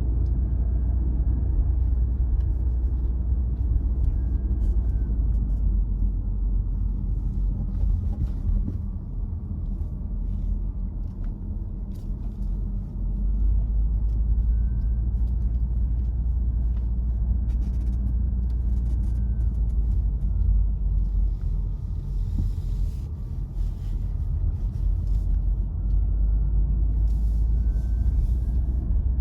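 Car driving along a road: a steady low rumble of tyres and engine, with a faint whine that drifts slowly up and down in pitch and scattered light ticks.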